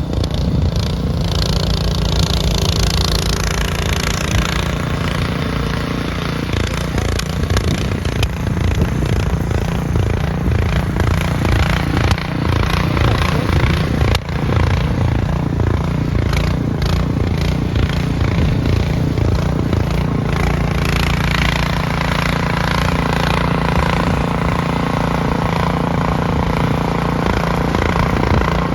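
An engine running steadily, with a rushing hiss over it for the first few seconds and again in the last third.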